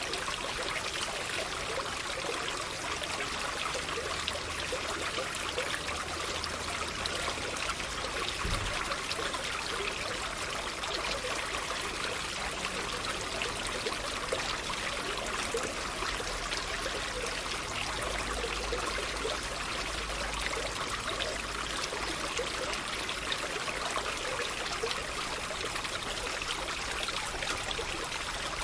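Water trickling and splashing steadily, as of a small stream.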